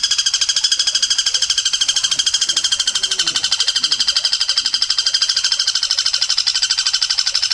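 A loud, high-pitched trill pulsing very fast and without a break, of the kind played as a tutor recording for caged songbirds.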